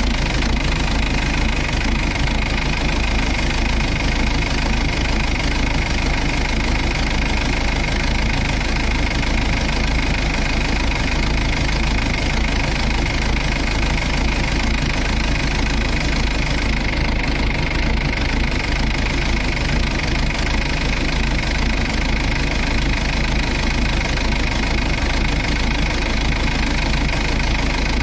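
Combine harvester's diesel engine running at a steady speed, with a strong low hum and a constant whine above it.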